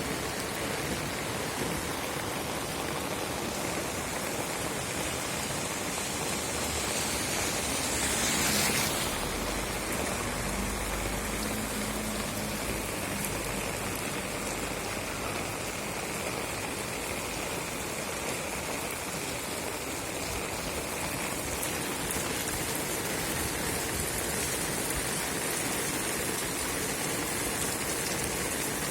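Steady rain falling and pattering on surfaces. About a third of the way in there is a brief louder rush, followed by a faint low hum for a few seconds.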